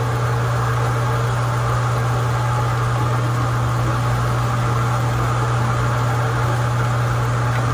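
A steady, unchanging mechanical drone with a strong low hum, like a running motor.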